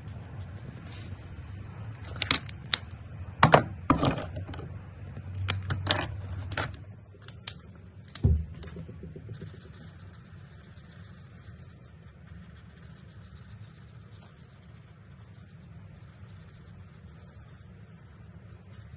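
Plastic alcohol markers clicking and clattering, a dozen or so sharp knocks and snaps over several seconds as caps come off and markers are picked up and set down. After that comes the faint steady hiss of a marker nib stroking across paper.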